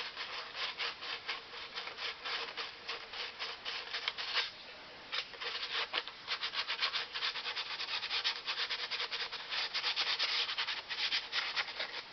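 Sandpaper rubbed back and forth over a fiberglass RC airplane cowl, smoothing a repair, in quick even strokes of about four a second. There is a short pause about four and a half seconds in.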